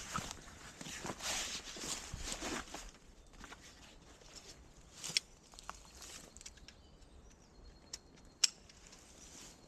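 Rustling footsteps through dry leaf litter for about three seconds, then quieter woodland with a few sharp snaps or clicks, the loudest about eight and a half seconds in.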